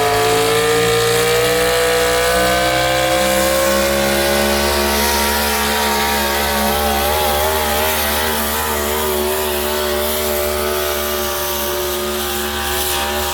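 Pulling tractor's engine running flat out under load while it drags the weight sled, its pitch climbing slowly over the first few seconds, then holding high with a slight waver.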